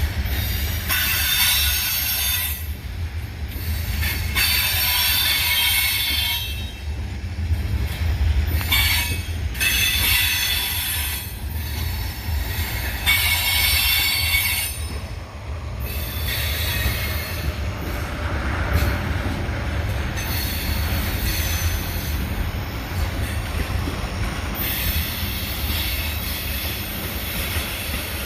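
Freight train cars rolling past at close range: a steady low rumble, with high steel-wheel squeal coming and going every few seconds for a second or two at a time, mostly in the first half.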